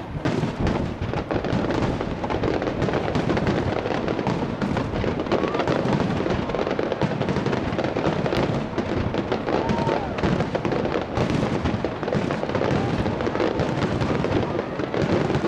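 Starmine fireworks display: a dense, continuous barrage of shells bursting and crackling in rapid succession, with no pause.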